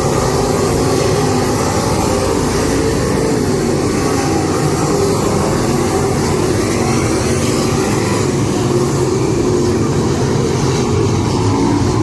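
Dirt-track modified race car engines running hard and steady at speed.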